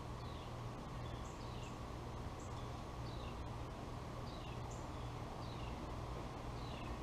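A bird calling in the background with short chirps that fall in pitch, repeated every second or so, over a steady low hum.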